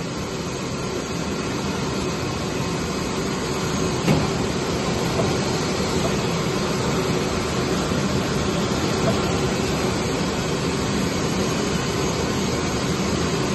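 CNC vibrating-knife cutting machine running, a steady mechanical noise with a faint hum, and a single short knock about four seconds in.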